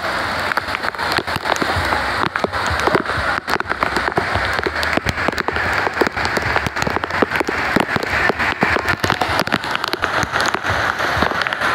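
Heavy rain falling, with a dense stream of sharp drop hits close to the microphone.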